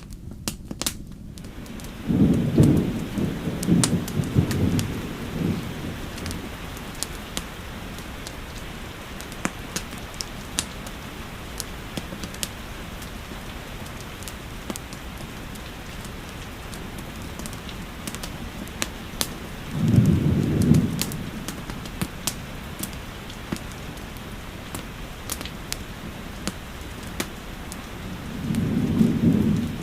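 Steady rainfall with scattered sharp crackles of a wood fire. Low rolls of thunder rumble three times: a long one a couple of seconds in, a shorter one about two-thirds of the way through, and another near the end.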